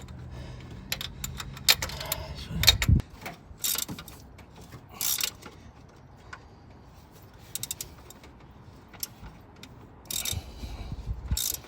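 Ratchet wrench clicking in short runs with metal tool clinks while exhaust manifold bolts are tightened. A low hum underlies the first three seconds.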